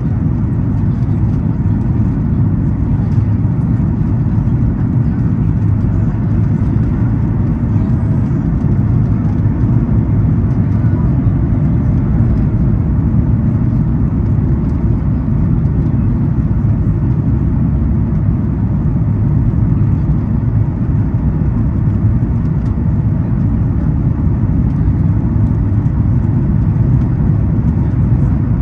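Steady low roar of airflow and the CFM LEAP-1B engines heard inside the cabin of a Boeing 737 MAX 8 on final approach, even in level throughout.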